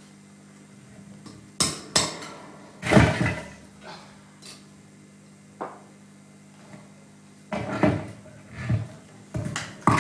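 Scattered knocks and clattering strikes on hard objects, irregular and sparse at first, then bunching up near the end, one about three seconds in ringing on. A steady low electrical hum, as from an amplifier, runs underneath.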